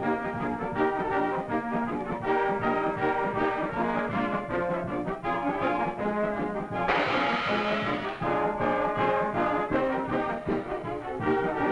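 Brass band music on the film soundtrack, with the full band growing brighter and louder about seven seconds in.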